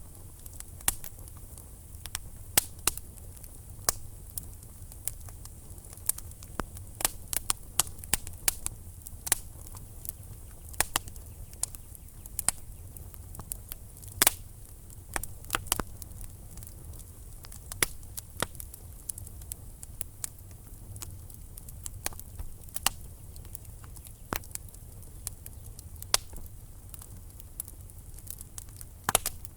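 Wood fire burning in a fireplace: logs crackling with frequent sharp, irregular pops over a steady low rumble of the flames.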